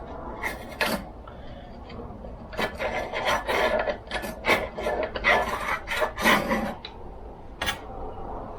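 A ruler scraped along the groove of a chainsaw guide bar, pushing out crusty built-up gunk. Irregular short scraping strokes: a couple in the first second, then a quick run of them through the middle.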